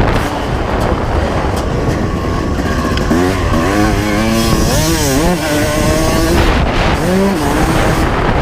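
1995 Honda CR250 two-stroke single-cylinder motocross engine running under a rider, over a constant rush of noise. Its pitch swings up and down sharply several times in the middle as the throttle is worked, and once more near the end.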